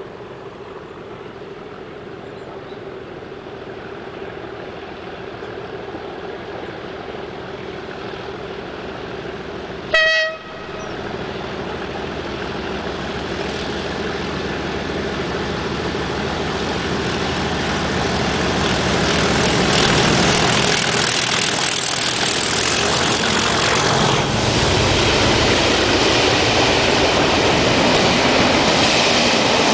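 Two English Electric Class 37 diesel locomotives working hard under power, growing steadily louder as they approach. A short horn blast sounds about a third of the way in, and the rumble of the passing train builds near the end.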